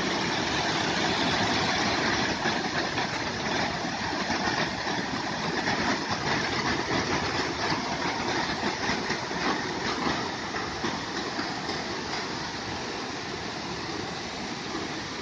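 Waterfall: a steady rush of falling water, easing slightly toward the end.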